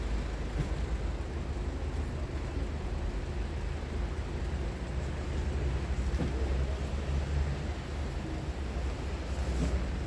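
Steady city street noise with a low rumble and no distinct events.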